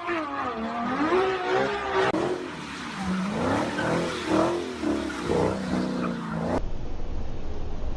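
A car being driven hard, its pitch sweeping up and down as it revs or its tyres skid and squeal. The sound changes abruptly about two seconds in and cuts off shortly before the end.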